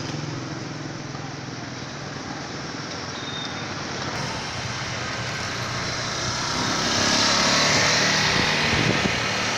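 Road traffic noise heard while riding an e-bike, a steady rushing hiss that swells louder for a couple of seconds near the end as something passes.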